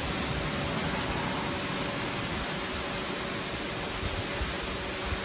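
VEVOR pressure washer spraying a steady jet of water onto a truck's body, its pump and motor running with an even hiss and a faint hum throughout.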